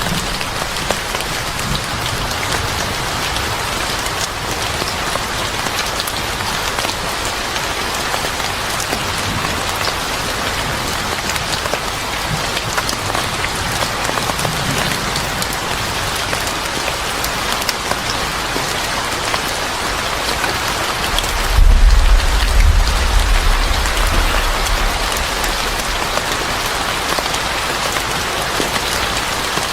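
Steady heavy rain falling on a surface, a dense even patter. About two-thirds of the way through, a deep low rumble swells in for a few seconds and fades.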